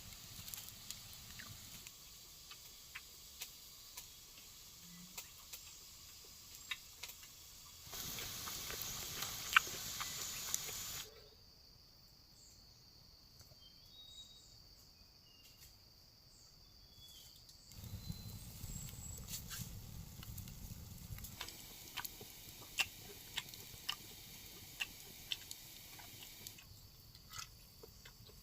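Forest ambience of dripping and pattering rain: a soft hiss with many small irregular drop clicks. It grows louder for a few seconds, then drops to a quiet stretch with a steady high insect drone and a few faint bird chirps, before the patter returns.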